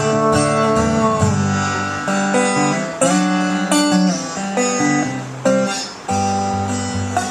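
Guitar music with no singing: an instrumental break in a country song, with picked and strummed guitar notes changing every fraction of a second, recorded on a flip phone.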